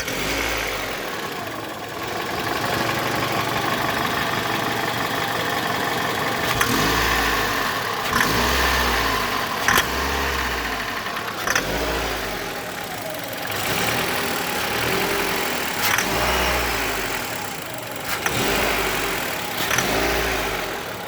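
Mitsubishi 4B10 1.8-litre four-cylinder engine being revved in short repeated blips, the pitch rising and falling every couple of seconds, with a low rumble and sharp rattling knocks on the throttle openings. The owner takes these for an unexplained extraneous rumble or rattle that comes only when gas is added.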